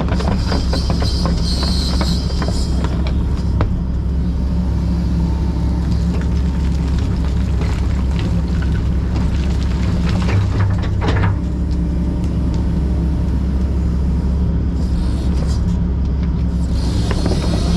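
Diesel engine of a Kobelco SK140 excavator running steadily under work, with clanks and rattles from the machine near the start and again near the end.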